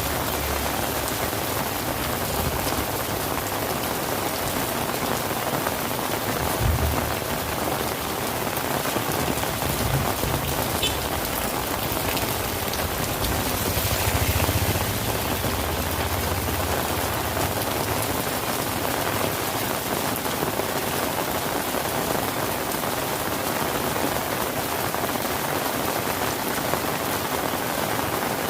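Steady rain falling and pattering on surfaces, a dense even hiss, with a few brief low rumbles or thumps under it, about 7 and 10 seconds in and again for a couple of seconds midway.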